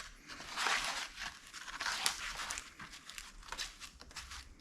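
Body filler being scraped and smeared on with a spreader, in irregular rasping strokes.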